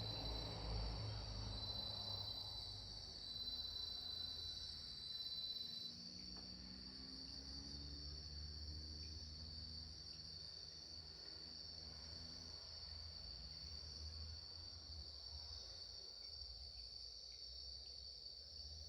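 Insects singing in a steady, unbroken high-pitched chorus, with the occasional faint crackle of a wood campfire underneath.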